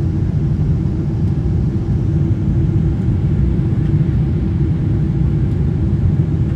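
Steady low rumble of cabin noise inside a Boeing 777-200LR, from its GE90 engines and the air around the fuselage, with a faint steady hum running through it.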